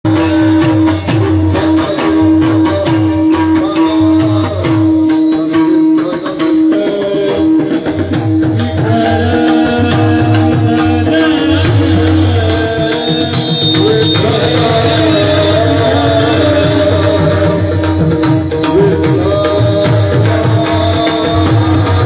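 Kirtan devotional music: tabla drumming and quick, even percussion strokes under a held drone note with a melody line moving above it.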